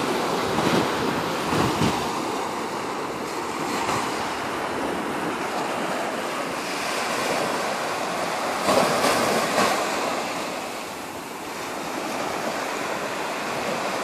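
Gulf of Mexico surf: small waves breaking and washing up the beach, with a rise and fall as each wave comes in, the louder breaks about a second in and again around nine to ten seconds. A breeze rumbles on the microphone.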